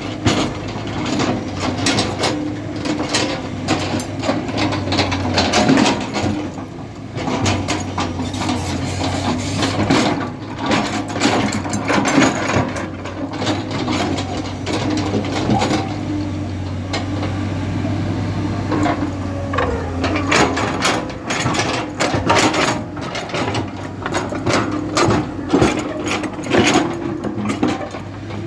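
Heavy diesel earthmoving machinery at work: a steady low engine drone with frequent clanks, knocks and rattles over it.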